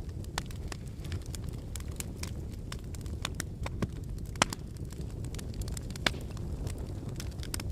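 Wood fire burning in a fireplace: a steady low rumble of flames with irregular crackles and pops from the burning logs, two sharper pops about four and a half and six seconds in.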